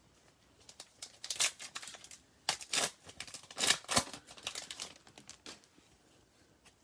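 A plastic trading card pack wrapper being torn open and crinkled by hand, in irregular crackly bursts that die away about a second before the end.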